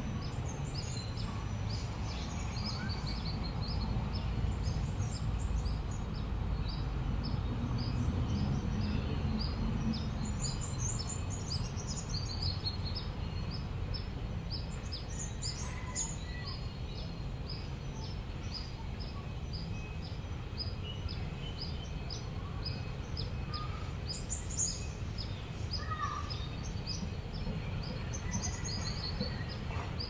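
Birds chirping: a steady run of short high chirps, about two a second, with other brief calls now and then, over a low background rumble.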